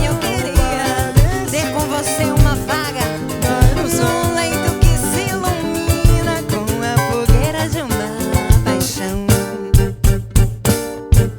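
Live samba band playing, with strummed string lines over a steady drum and percussion beat. Near the end the band shifts to sharp accented hits together, the texture opening up between the strokes.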